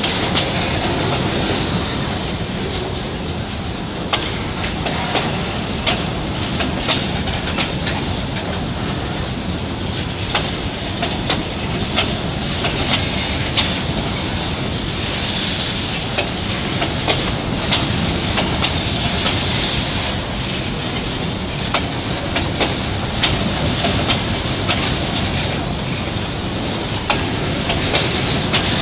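Freight train wagons rolling past close by: a steady rumble and rattle with frequent sharp clacks of the wheels over the rail joints.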